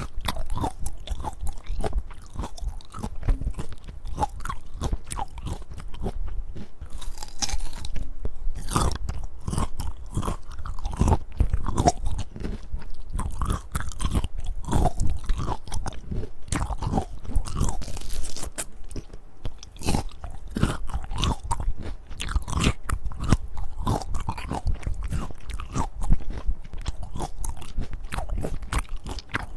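Crunchy bites into a firm peach and steady chewing, close to the microphone, with many irregular crunches.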